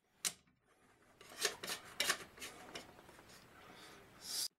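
Socket wrench turning cylinder head bolts a quarter turn, the final angle-tightening stage of a head-gasket job. A single click just after the start, then irregular scraping and clicking strokes from the tool and bolts, louder just before the end.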